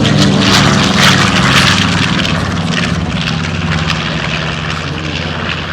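Propeller airplane flying past with its engine running loud, gradually fading toward the end.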